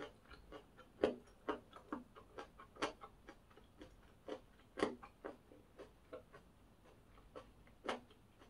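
Close-miked chewing of crispy pork cartilage in fried rice: irregular crisp crunching clicks, a few a second, with a handful of louder crunches.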